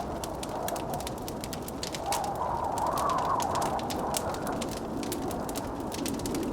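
Wood fire crackling with a steady stream of sharp pops, under a blizzard wind that howls with a wavering pitch, swelling about two seconds in.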